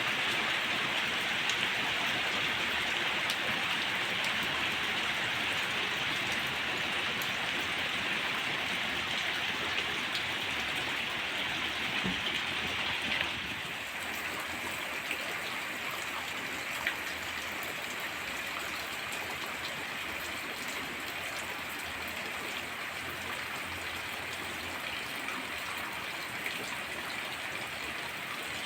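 Heavy rain falling steadily, with scattered louder drops ticking. About halfway through it drops a little in level and its hiss turns duller.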